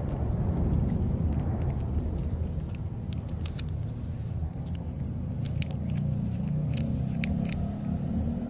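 A cat licking and eating a churu lickable treat: irregular small sharp clicks and smacks, coming mostly in the second half, over a steady low rumble.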